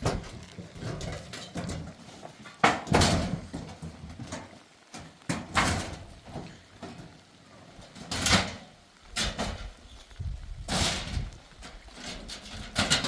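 A series of heavy knocks or thumps, one about every two to three seconds, each ringing on briefly.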